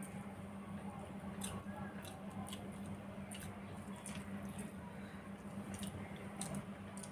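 Faint eating sounds of rice with fried greens: soft squishing and small irregular clicks of mouth and food, over a steady low hum.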